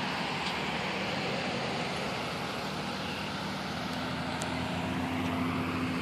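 A motor vehicle's engine hums over a steady rushing noise, and the engine grows a little louder about four seconds in as it comes closer.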